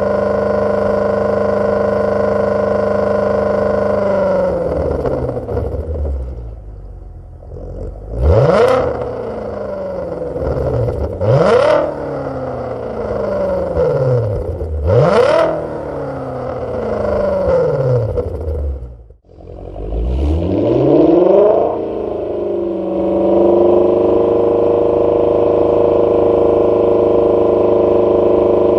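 Volkswagen Passat B5 4.0 W8 engine revved through a straight-through cat-back exhaust with X-pipe and valved rear mufflers: revs held steady, then falling back, three quick throttle blips each dropping away, then revs climbing and held steady again before easing off at the end.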